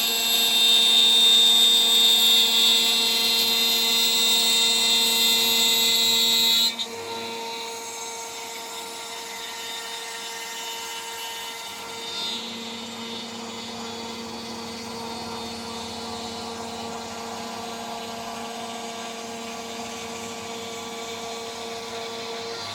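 CNC router spindle at about 14000 RPM with a 3 mm three-flute end mill cutting, a loud high-pitched screech, until the cut ends abruptly about seven seconds in; after that the spindle runs on freely with a steady, much quieter whine.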